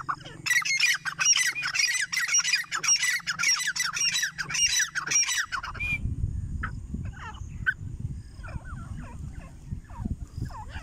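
Grey francolin giving loud, harsh squawking calls in a rapid, dense run of falling notes for about five seconds. The calls stop suddenly and are followed by fainter, scattered calls over a low rumbling noise.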